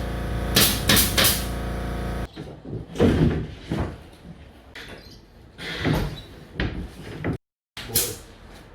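Carpentry work sounds: a steady motor hum with three sharp clicks over it, then, after an abrupt cut, scattered wooden knocks and clatters of boards being handled.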